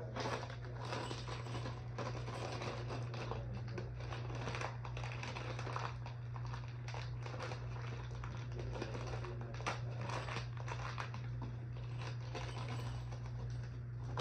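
Irregular rustling and light clicking of things being handled, over a steady low hum.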